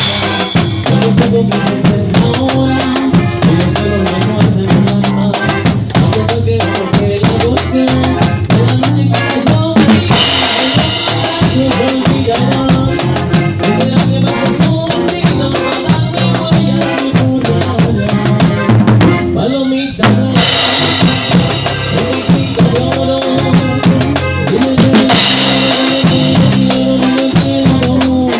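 Norteño band playing an instrumental passage, the drum kit driving a quick, steady beat over bass and pitched melody lines. Bright cymbal washes come in three times, about a third of the way through, about two-thirds of the way through and near the end.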